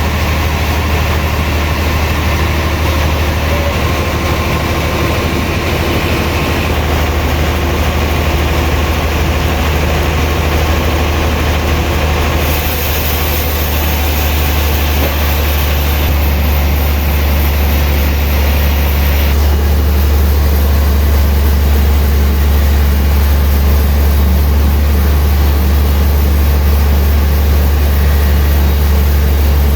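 Heavy sawmill machinery running steadily with a deep low hum, getting slightly louder about two-thirds of the way through.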